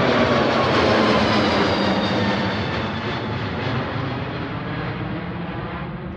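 Airplane engines after takeoff: a loud rushing roar that fades steadily as the plane flies away, with a faint whine slowly dropping in pitch.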